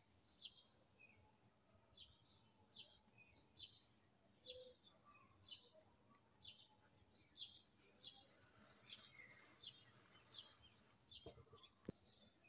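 Faint chirping of small birds in the background, short high chirps repeating every second or so, with two soft knocks near the end.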